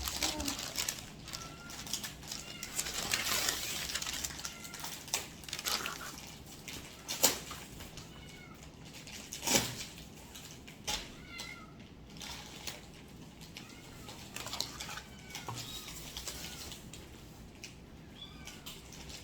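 Animal calls repeated many times, short and high like a cat's mews, with scattered knocks and rustling in between.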